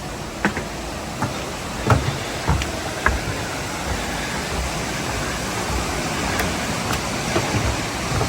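Steady rush of water from the gorge's creek and cascades. Footsteps on the stone trail knock about every half second in the first few seconds, then only now and then.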